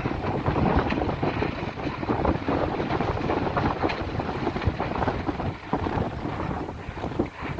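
Wind buffeting the microphone: a loud, uneven rushing noise with irregular gusts.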